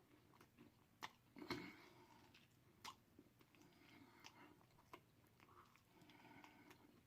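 Quiet close-up chewing of deep-fried turkey tail, with a few sharp wet mouth clicks and smacks, the loudest about a second and a half in.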